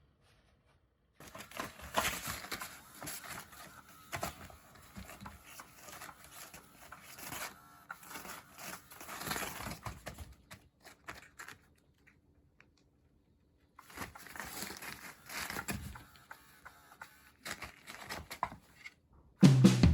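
Kittens playing with toys: irregular rustling and crinkling with light taps and clicks, in two stretches with a pause of about two seconds between. Music starts right at the end.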